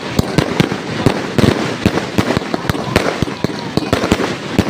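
Fireworks going off in a rapid, dense barrage of bangs and crackling pops, several a second without a break.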